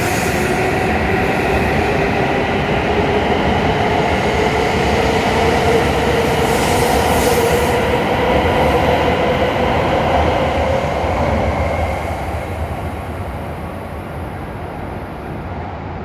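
W7 series Shinkansen pulling away from the platform, its traction motors whining in a tone that slowly rises as the train gathers speed over running noise. The sound fades in the last few seconds as the train leaves.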